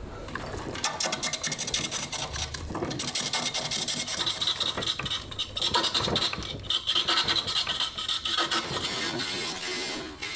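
Hand tool scraping and cutting green wood in quick, uneven strokes, growing harsher around the middle.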